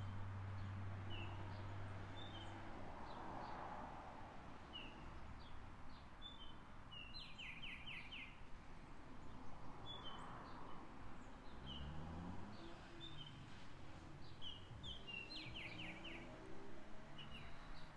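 Small birds chirping and singing in trees: scattered short high chirps, with a quick run of four or five notes heard twice. A faint low hum fades out in the first few seconds.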